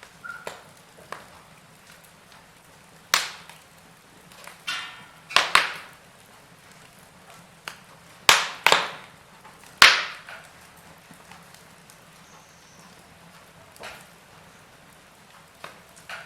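Wood fire in a fireplace crackling, with scattered sharp pops. The loudest few come between about three and ten seconds in, with a brief hiss before one of them, over a faint steady low hum.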